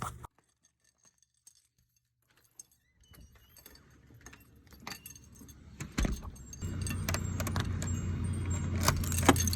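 Keys jangling with clicks and knocks, over a steady low hum that comes in about two-thirds of the way through.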